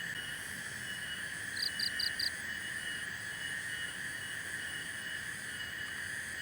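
Forest chorus of insects and frogs: a steady high trilling drone with a faster pulsing note over it, and four quick high chirps in a row about a second and a half in.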